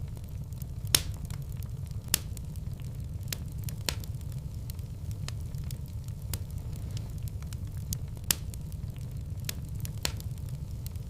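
Wood fire burning in a fireplace, crackling with sharp, irregular pops over a steady low rumble; the loudest pops come about a second in, just after two seconds, and around eight seconds.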